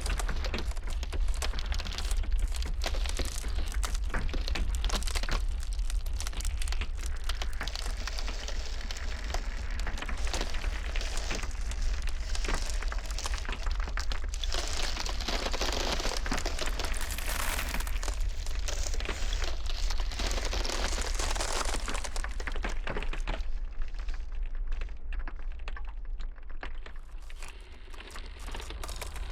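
Ice cracking and crackling in dense rapid snaps over a steady low rumble of blizzard wind. A hissing wash swells in the middle, and the crackling thins out near the end.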